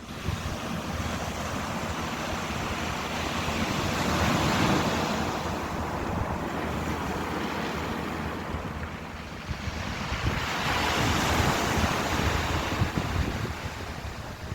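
Ocean surf: waves wash in and draw back, two swells rising and falling about seven seconds apart.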